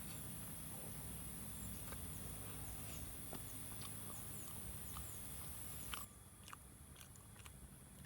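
Close-up chewing and biting: scattered soft clicks and crunches of someone eating roasted food. Underneath is a steady high-pitched hiss that drops away about six seconds in.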